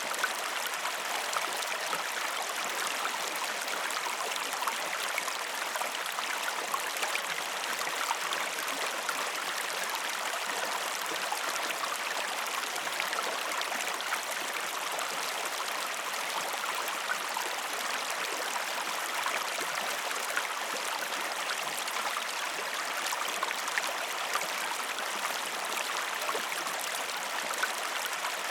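Steady flow of a river's running water, an even rush with fine crackling detail that does not change.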